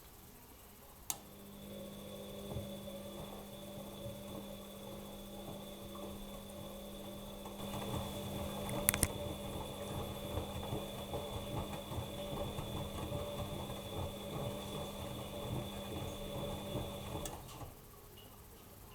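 Bosch Maxx Advantage WFCX2440 washing machine's motor starting with a click about a second in, running with a steady hum and a faint high whine amid irregular tumbling noise, and stopping shortly before the end, as in a wash-cycle drum turn.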